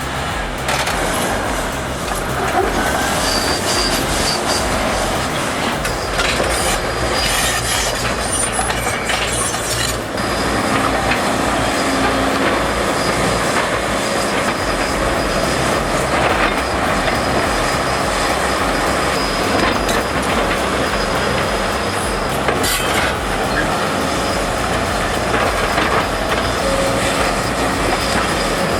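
Heavy tracked earthmoving machinery at work: a loud, steady run of engine and mechanical noise with the metallic squeal and clatter of steel crawler tracks. The noise dips briefly about ten seconds in.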